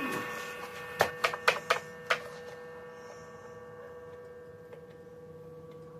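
A struck metal part rings, its steady tone fading slowly, with a few sharp clicks and taps about a second in.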